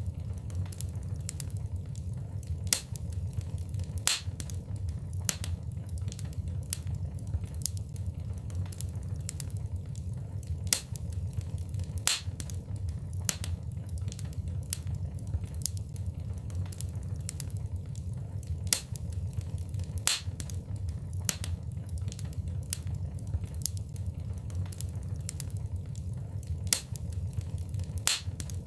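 Wood fire burning in a fireplace: irregular sharp crackles and pops, some much louder than others, over a steady low rush of the flames.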